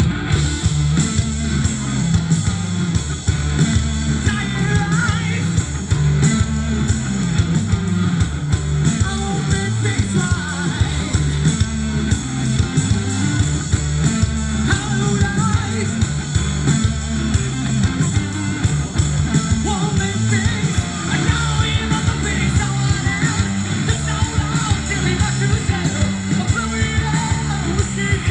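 Live rock band playing loudly: electric guitars, bass and drums with a vocalist singing.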